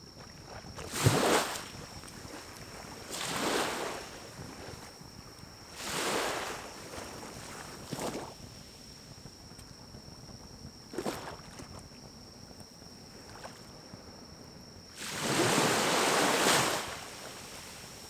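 Pine cones burning in a small wood-burning stove: a low fire hiss broken by rushing surges of about a second, sharp crackling pops twice, and a longer two-second rush near the end. A faint steady high tone runs underneath.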